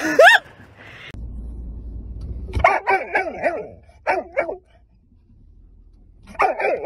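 Golden retriever barking and whining inside a car, in three runs of short calls: about three seconds in, again just after four seconds, and near the end. A low rumble, like a car's engine, comes before the first run.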